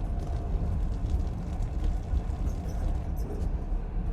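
Steady low rumble of a moving passenger train, heard inside the carriage, with a few light clicks a little past three seconds in.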